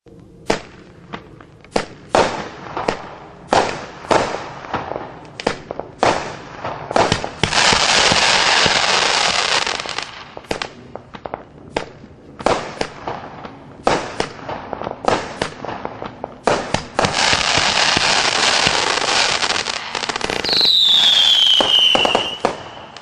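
Winda "Notorious" 500-gram firework cake firing: a string of sharp shots and bursts, roughly one or two a second, with two long spells of dense crackling in the middle and toward the end. A falling whistle sounds near the end.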